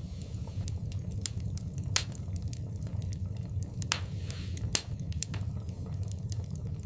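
Wood fire burning in a fireplace: a steady low rumble with irregular crackles and snapping pops, the loudest about two seconds in.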